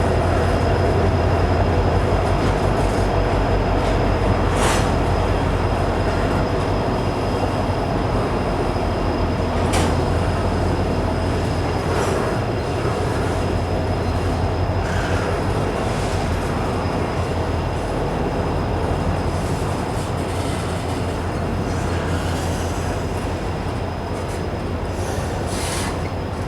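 Norfolk Southern freight train rolling past: a steady low rumble of wheels on rail with a thin, steady high-pitched squeal and a few sharp knocks, slowly getting quieter.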